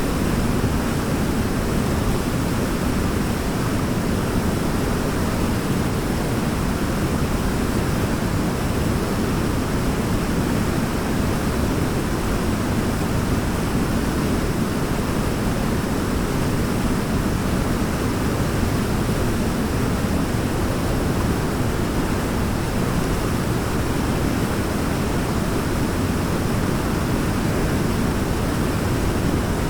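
Waterfall: a steady, even rush of falling water, heaviest in the low end, with no changes.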